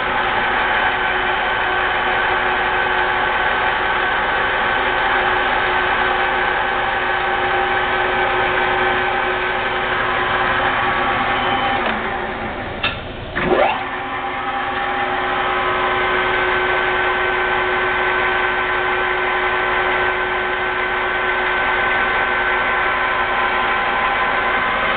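Geared-head engine lathe running under power with its lead screw turning: a steady whine from the headstock gears. About halfway through the sound dips briefly with a quick sweep in pitch, then runs on steadily.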